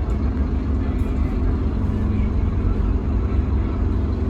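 Scania K310UB bus's DC9 diesel engine running, a steady low rumble with a faint hum over it for the first couple of seconds.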